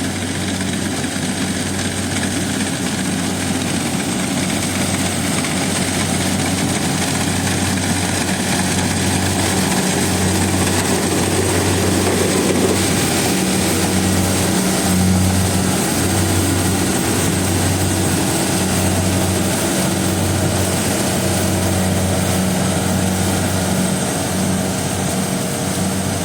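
Kubota DC70 rice combine harvester running steadily under load, its diesel engine and threshing machinery giving a loud, even drone with a low hum.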